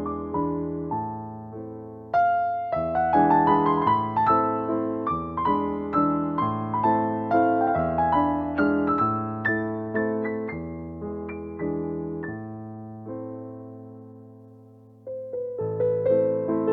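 Background music of solo piano, played as chords and melody with soft, ringing notes. The playing thins out and fades, then picks up again with a new phrase about fifteen seconds in.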